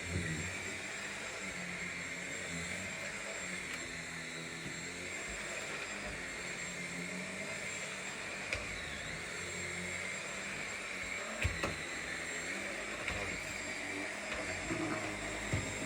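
Vacuum cleaner running steadily across the floor, with a few sharp ticks of picked-up debris or the head knocking, around the middle and near the end.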